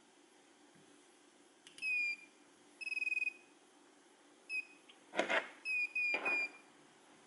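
A series of high electronic beeps from radio-control gear, all on one pitch: a short beep, a longer held one, a quick blip, then three short beeps in a row. Two brief rustling knocks, the loudest sounds, come between the last beeps.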